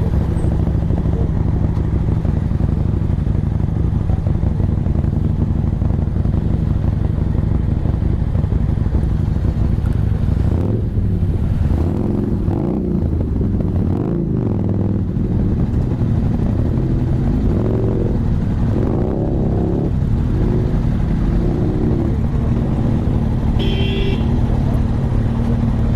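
Several motorcycle engines idling steadily in a stationary pack, with some engines revving up and down about halfway through. A short high-pitched tone sounds near the end.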